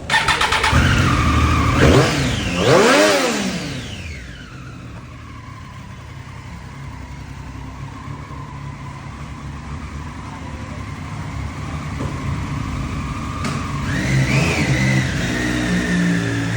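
Triumph Street Triple's three-cylinder engine revved in the first few seconds, the pitch sweeping up and falling back twice. It then settles to a steadier, quieter running and revs briefly again near the end.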